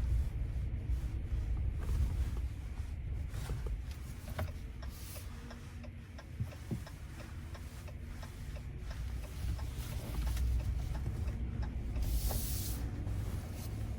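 Low rumble of a pickup truck driving, heard from inside the cab, with scattered light clicks and a brief hiss about twelve seconds in.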